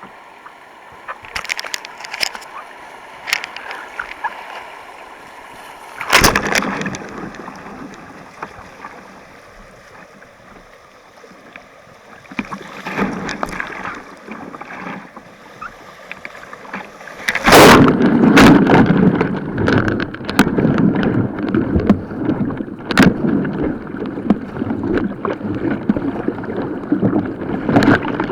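Water splashing and rushing around a kayak, with scattered sharp paddle splashes and knocks. About two-thirds of the way through it turns much louder and keeps churning as the boat runs white water.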